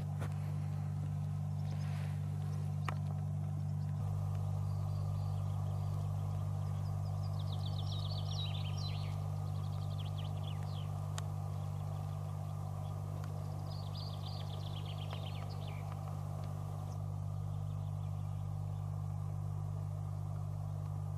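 A songbird singing rapid high trills three times, over a steady low hum that is the loudest sound throughout.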